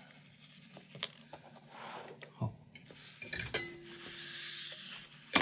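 Small metal parts and tools clinking and being handled on a workbench, with a few light clicks, a rustling hiss in the second half and a sharp click at the end.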